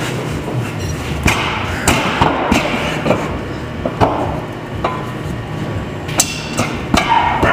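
Irregular metal knocks and clanks, about a handful of sharp strikes spread over several seconds, as the split tractor halves are kicked and struck to push them apart, over a steady low hum.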